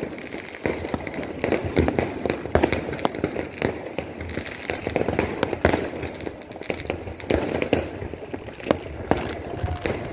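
Fireworks and firecrackers going off in many rapid, irregular, overlapping bangs and crackles.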